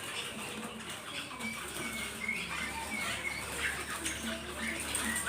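A crowd of small caught songbirds chirping and twittering in short scattered calls, with light fluttering and scratching in their cage.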